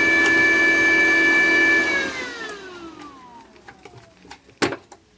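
Cooling fan of a Parkside PMSG 200 A1 flux-core welder running with a loud steady whine, then winding down in pitch and fading from about two seconds in as the machine is switched off. A single sharp knock near the end.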